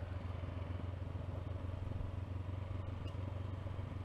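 Honda CB500X's parallel-twin engine running steadily at low revs as the motorcycle is ridden slowly, pulling along in a low, even hum.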